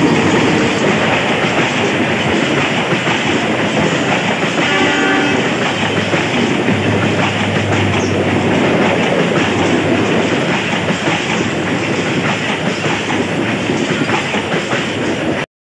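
A passenger or freight train passing close by, its wheels clattering over the rail joints in a steady loud rush, with a brief horn note about five seconds in. The sound cuts off abruptly near the end.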